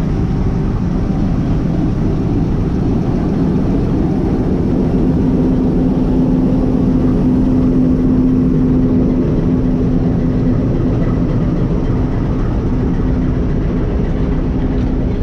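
Diesel locomotive hauling a train, with the engine's loud steady low rumble. A steady hum joins in about four seconds in and fades near the end.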